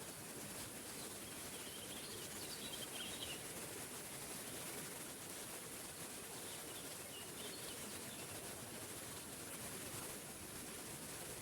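Waterfall running steadily, with faint bird chirps twice, about two seconds in and again around seven seconds.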